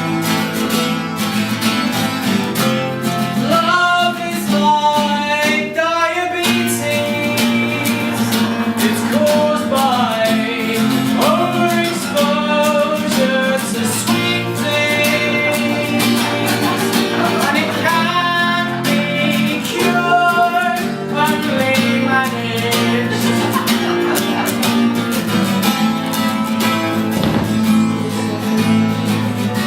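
Live acoustic guitar strummed steadily as a man sings over it in stretches, a singer-songwriter performing a song.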